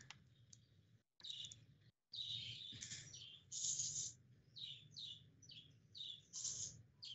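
Faint bird chirps, short falling notes repeated about twice a second, with a few brief noises in between.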